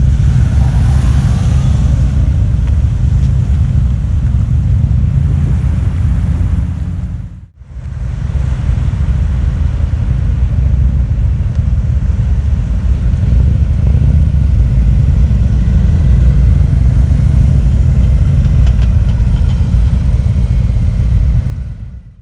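Harley-Davidson V-twin motorcycle running on the move, a loud, heavy low rumble. The sound drops out briefly about seven and a half seconds in.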